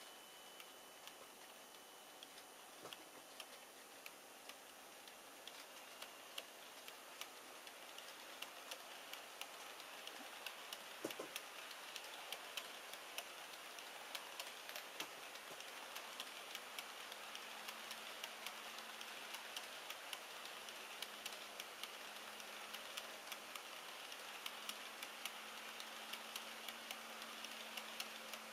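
HO-scale model freight train of tank cars running past, its wheels clicking over the rail joints in a fast, uneven patter that grows louder and denser as the train draws near. A low, steady motor hum joins about two-thirds of the way through.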